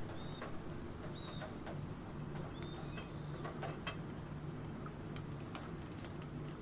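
Computer keyboard typing in irregular clicks over a steady hiss of rain. A few short, high chirps sound in the first half.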